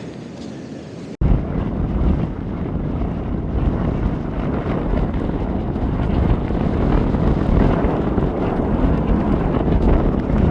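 Strong wind buffeting the microphone in a loud, rumbling rush, over surf washing up the beach as the tide comes in. It starts abruptly about a second in.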